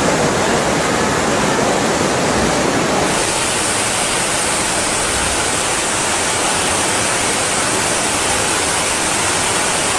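Loud, steady rush of water, with a brighter hiss coming in about three seconds in.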